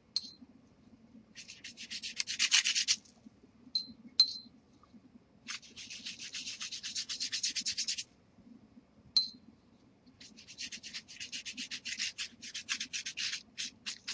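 Oil pastel scratching across watercolor paper in three stretches of quick back-and-forth strokes, with a few short light clicks in the gaps between them.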